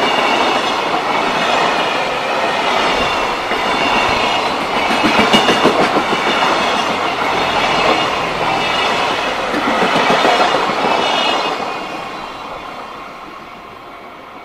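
JR Freight container train's loaded flat wagons rolling past, the wheels clattering over the rail joints with a high ringing above the rumble. The last wagon goes by about twelve seconds in and the noise dies away.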